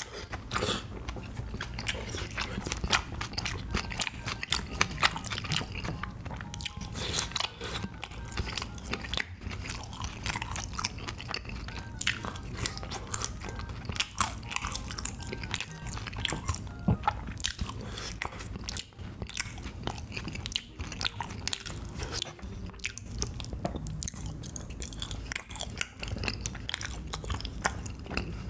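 Close-miked mukbang eating sounds: a person chewing and biting spicy beef brisket tteokbokki and fried sides, with a dense run of wet smacks and small crunches.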